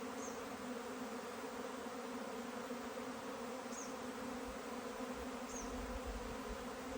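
Steady buzzing hum of a honeybee swarm, many bees flying around and going into their new home.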